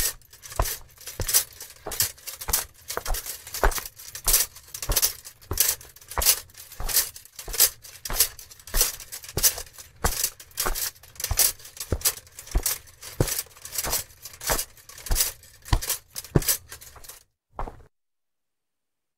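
Footsteps of a knight in armour, walking at about two steps a second, each heavy step carrying a metallic clink of armour. The steps stop about 17 seconds in.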